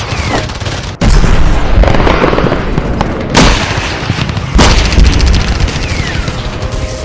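Loud booms with a deep rumble: sudden hits about a second in, at three and a half seconds and at four and a half seconds, with a falling whistle near the end.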